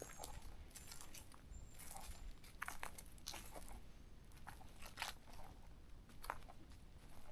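Footsteps crunching on a forest trail at walking pace, in short irregular crackly steps.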